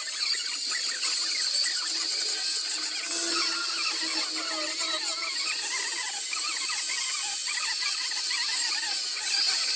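Small high-speed rotary carving tool whining as it cuts into wood, its pitch wavering up and down with the load.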